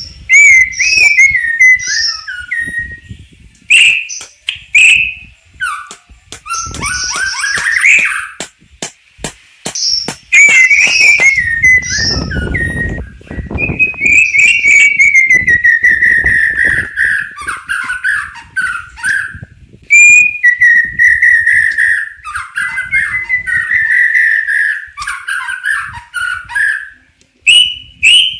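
White-rumped shama singing a long, varied song: loud whistled phrases that slide and warble around a middle pitch, broken by fast high trills and runs of sharp clicking notes.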